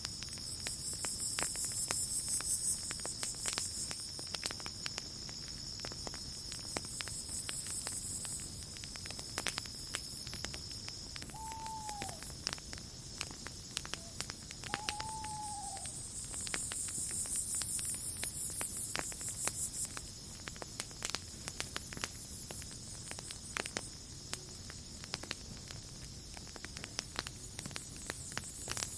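Campfire crackling with frequent sharp snaps, over a chorus of crickets and other night insects: a steady high trill that stops about a third of the way in, and a higher pulsing trill that swells and fades. About midway, an animal gives two short calls that rise and fall in pitch, a few seconds apart.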